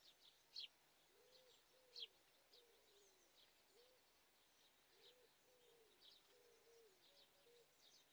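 Faint birdsong: small birds giving short, high chirps, the sharpest about half a second and two seconds in, over a lower, softer call of arched notes repeated in short phrases.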